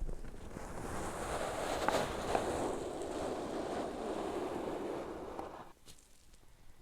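Steady, close-miked rustling noise with two soft clicks about two seconds in; it drops away near the end.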